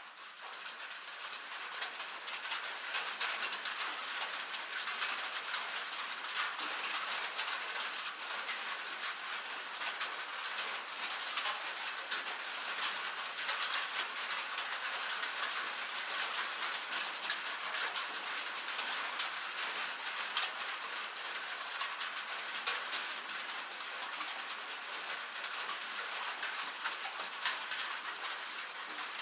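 Steady rain drumming on a metal roof, a dense patter of many small drop hits over a hiss. It fades in over the first couple of seconds, then holds even.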